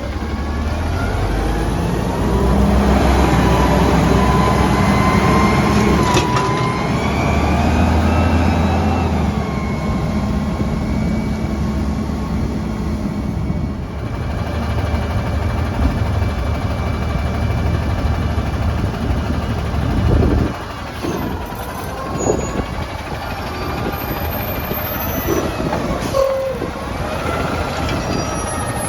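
Autocar ACX front-loader garbage truck's diesel engine revving up and down to drive the hydraulics, with a rising hydraulic whine, while the Heil Half/Pack forks lift a dumpster. Several sharp metallic knocks and bangs come later on, as the dumpster is worked on the forks.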